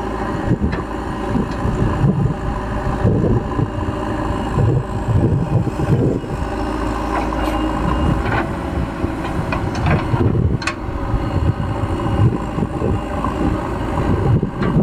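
Diesel engine of a backhoe loader running steadily while loading mud into a truck, with wind buffeting the microphone. A few sharp knocks stand out, the clearest about ten and a half seconds in.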